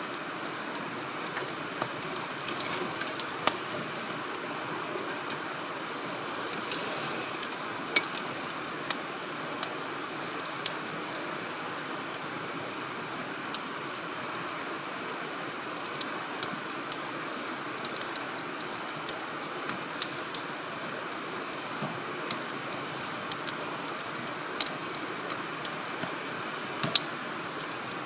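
Wood fire crackling, with irregular sharp pops, one or two a second, over a steady hiss.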